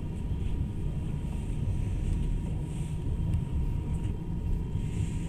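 Passenger train running, heard from inside the carriage as a steady low rumble, with a faint steady tone above it.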